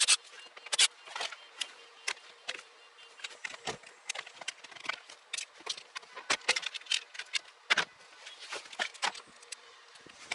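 Irregular clicks, taps and light rattles of plastic interior trim panels and their clips being handled and pried off a car's dash, a few sharp clicks a second.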